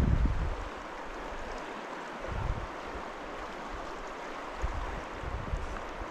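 Trout creek water rushing steadily in an even hiss. Low wind buffeting on the microphone is loud in the first half second, then comes back briefly a couple of times.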